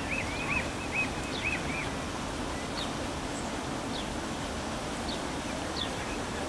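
High bird chirps: a quick run of arched peeps in the first two seconds, then scattered short, sharp chirps, over a steady outdoor background noise.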